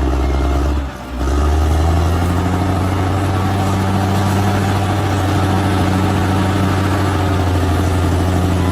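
Large bulldozer's diesel engine running steadily under load, with a brief dip in loudness about a second in.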